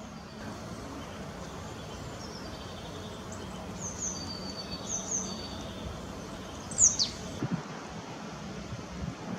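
Small birds at a feeder calling: a series of short, high chirps, then one loud, sharply falling call about seven seconds in, over steady background noise.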